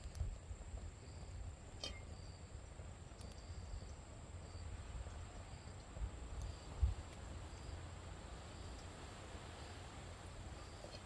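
Insects chirping faintly at a campsite: short high chirps about once a second over a steady high drone, with a low rumble underneath and a single click about two seconds in.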